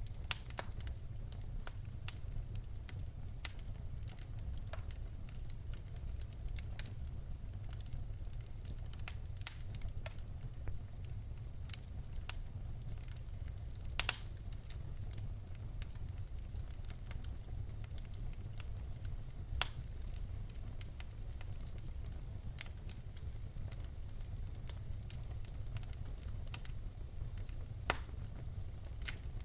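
Wood fire crackling in a fireplace: scattered sharp pops and snaps over a steady low rumble of the flames, with one louder pop about halfway through.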